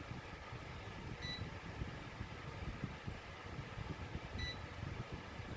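Trustech remote table fan running with a steady whoosh of moving air, while its electronic control beeps briefly twice, about a second in and again some three seconds later, as it works through its sleep setting.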